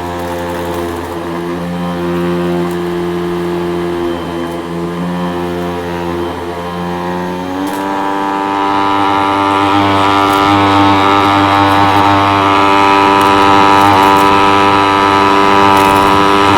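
Hoover vacuum cleaner motor running with a steady hum. About eight seconds in its pitch steps up and it gets louder.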